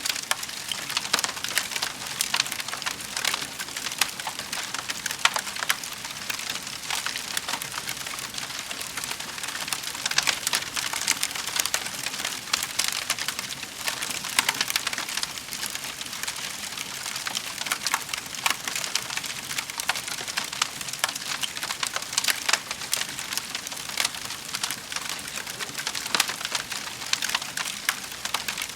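Wood fire crackling in a fireplace: a dense, irregular stream of sharp pops and snaps over a soft steady hiss.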